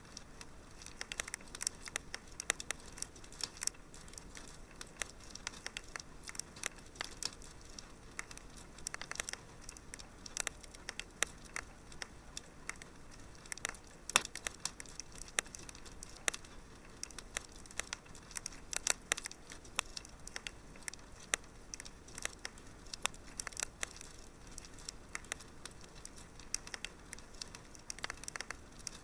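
Wood fire crackling in a fireplace: a steady run of small irregular pops and snaps, with a few louder pops, over a soft low hiss.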